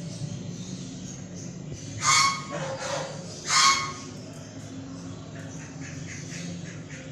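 Two loud, harsh bird squawks, each under half a second, about a second and a half apart.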